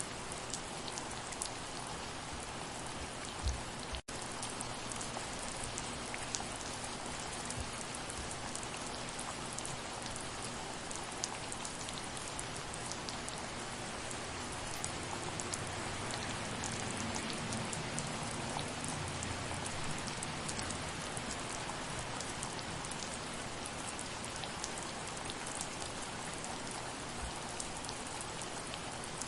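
Gentle steady rain, an even hiss of rainfall with many individual drops ticking through it. The sound cuts out for an instant about four seconds in.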